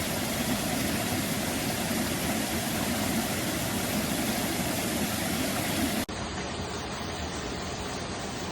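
Mountain stream water rushing steadily over rocks. About six seconds in, it cuts abruptly to a slightly quieter, duller take of the stream.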